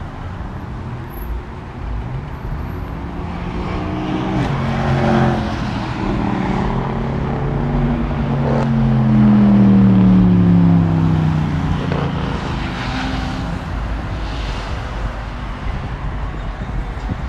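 Cars driving past one after another with their engines revving. The loudest pass comes about halfway through, and its engine note falls as it goes by.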